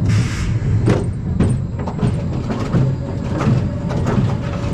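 Wildfire wooden roller coaster train rolling on its track: a steady low rumble with repeated sharp clacks and rattles.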